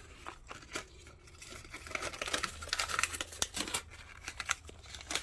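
Close handling noise: a paper dollar bill rustling and crinkling, with scattered small clicks and ticks.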